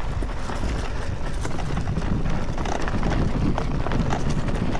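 Mountain bike without full suspension descending a rough trail: tyres rolling over dirt and stones with many quick knocks and rattles from the bike, over wind buffeting the microphone.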